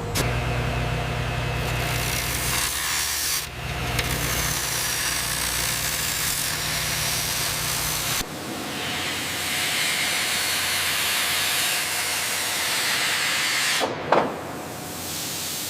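Factory machinery running with a steady mechanical grinding hiss. The sound changes abruptly twice, about three and a half and eight seconds in: a low hum drops out and a brighter hiss takes over. A short whoosh comes near the end.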